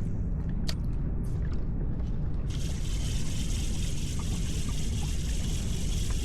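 Water trickling and lapping around a fishing kayak, under a steady low rumble of wind on the microphone. There is a sharp click about a second in, and an even hiss of moving water joins about two and a half seconds in.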